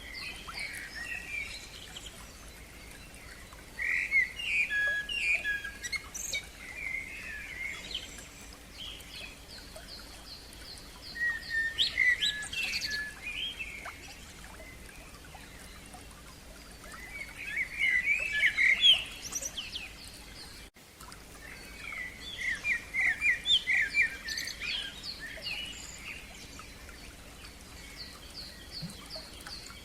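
Songbirds singing in separate phrases a few seconds apart, some with trills of fast repeated notes, over a faint steady background hiss.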